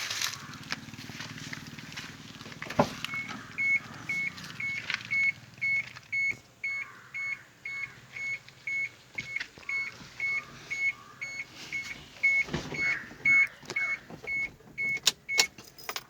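An electronic warning beeper, likely on the truck, sounding one steady high beep about twice a second. It starts about three seconds in and stops shortly before the end, with a low rumble in the first few seconds and a few knocks.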